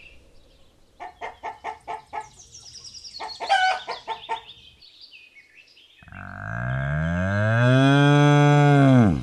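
Chickens clucking in a run of short calls for a few seconds. Then one long, loud moo from cattle, rising and then falling in pitch, which stops abruptly.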